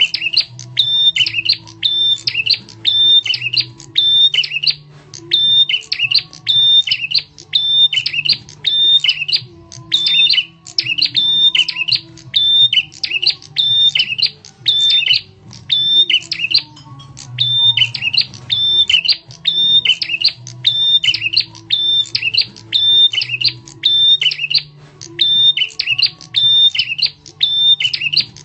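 Prenjak tamu (a prinia) giving a loud, sharp call over and over in an unbroken series, about three calls every two seconds, as a lure call, over a faint low hum.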